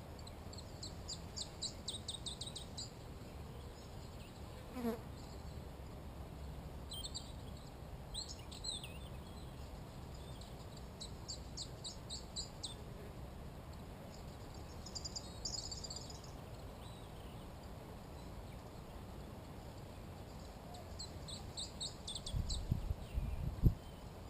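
A songbird singing high, short trilled phrases of rapid repeated notes, one every four to five seconds, over a steady low outdoor rumble. A low buzz glides past about five seconds in, and a few low thumps come near the end, the last one loud.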